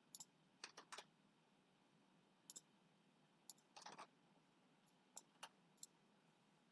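Faint, scattered clicks of a computer mouse, single and in quick pairs, about a dozen in all.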